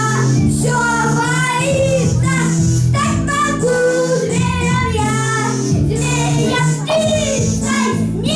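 Children singing a song over instrumental accompaniment, the voices holding long, wavering notes.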